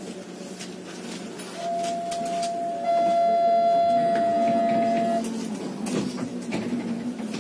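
Noise inside a moving train carriage: a steady whine that sets in about one and a half seconds in and stops about five seconds in, over a low hum with scattered small clicks and rattles.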